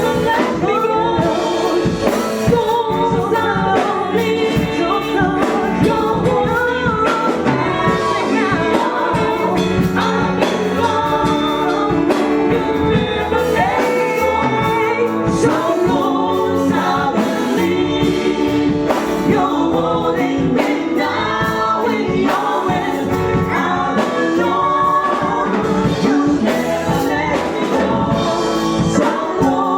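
Church choir singing a gospel song with band accompaniment and drums.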